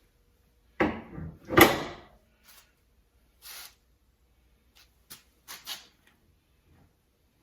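Car body parts being handled and fitted: two loud clunks with some scraping, about one and one and a half seconds in, followed by a few lighter clicks and knocks.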